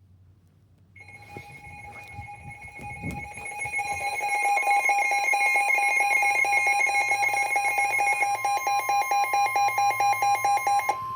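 Weather radio receiver sounding a warning alert: rapid electronic beeping that grows louder over the first few seconds, joined about four seconds in by the steady NOAA Weather Radio 1050 Hz warning alarm tone, which signals that a warning message follows. The beeping and tone cut off near the end.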